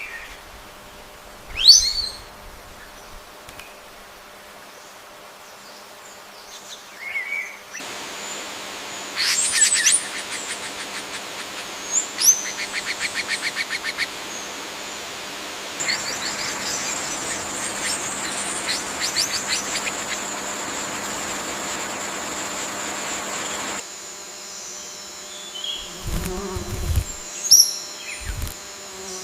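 Bird calls and chirps over insect noise: a sharp rising chirp about two seconds in, rapid trilled calls in the middle, and a steady high insect drone through the second half, with a few low thumps near the end.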